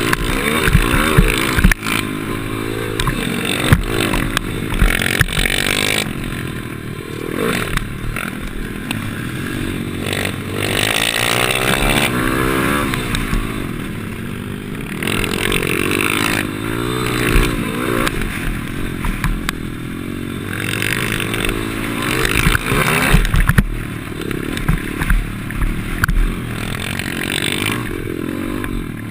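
Pit bike engine revving up and falling off again and again as it is ridden hard around a track, heard close up with wind noise. There are scattered sharp knocks and clatter, the loudest near the start and again around the last third.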